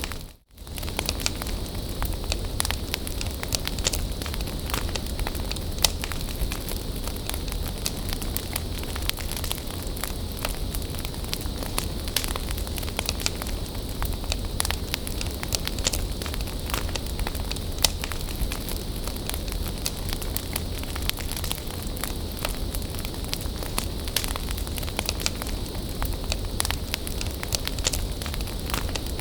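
Wood bonfire burning, with a steady hiss and frequent sharp crackles and pops of the burning wood throughout. The sound drops out briefly just after the start.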